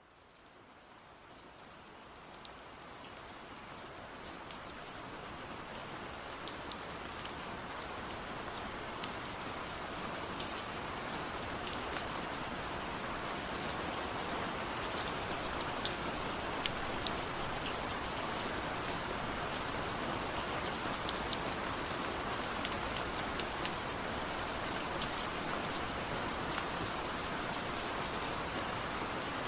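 Steady rain falling on a surface, with scattered individual drops ticking; it fades in gradually over the first several seconds, then holds steady.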